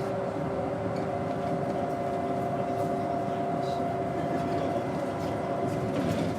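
Daewoo BS110CN bus's Doosan GE12Ti natural-gas engine running steadily, a continuous drone with a few steady whining tones over it.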